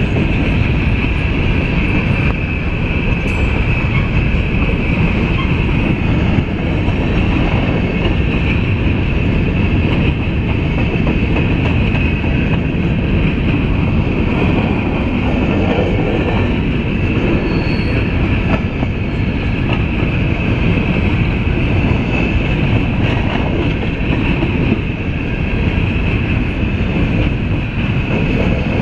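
CSX coal train's loaded-or-empty hopper cars rolling past in a long steady rumble of steel wheels on rail. A continuous high wheel squeal runs over it.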